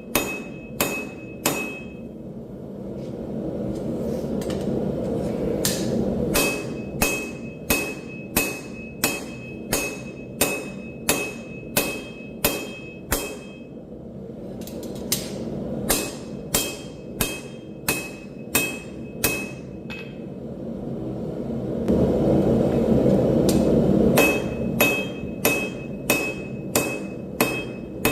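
Hammer forging steel on an anvil, about two blows a second in several runs, each blow leaving a high ringing tone. In the pauses between runs a steady rushing noise swells up.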